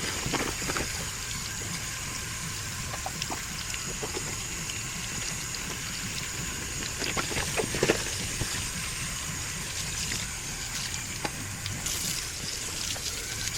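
Running water rinsing a car's engine air filter by hand: a steady rushing splash with a few brief knocks.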